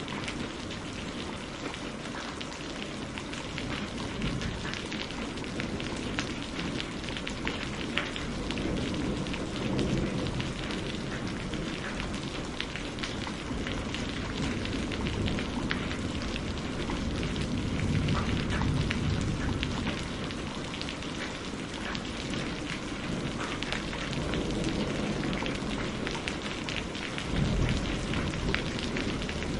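Steady rain falling, with a dense patter of individual drops. Low rumbles swell up about two-thirds of the way through and again near the end.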